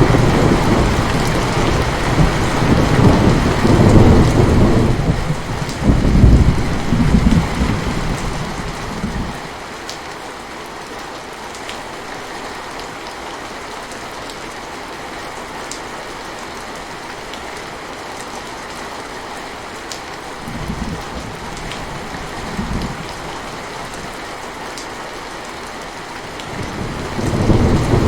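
Steady rain with thunder: a long low rumble rolls through the first nine seconds or so, two short rumbles come a little past the middle, and thunder builds again near the end.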